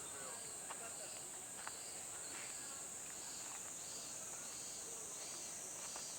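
Steady, high-pitched chorus of insects shrilling outdoors, with faint distant voices and a couple of faint clicks about one and two seconds in.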